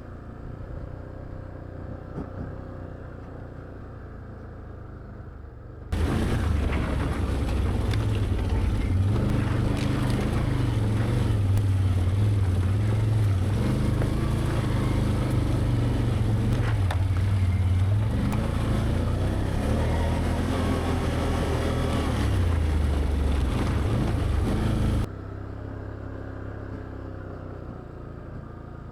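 ATV engine running steadily at trail speed. About six seconds in, the sound jumps abruptly to a much louder, rougher engine noise with a hiss across all frequencies, and near the end it drops back just as abruptly to the quieter hum.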